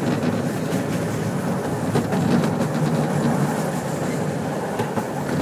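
Train running along the rails, heard from inside a passenger car: a steady rumble with a few sharp clicks from the wheels on the track.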